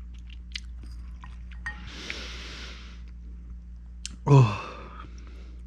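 A man's hard breath through the mouth, lasting about a second, with small mouth clicks around it, against the burn of very spicy noodles. About four seconds in comes a loud, falling 'oh'.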